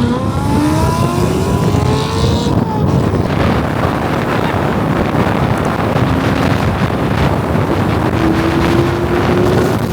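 A car engine accelerating, its pitch rising as it revs up, then pulling steadily with a slowly climbing pitch over dense road and exhaust noise.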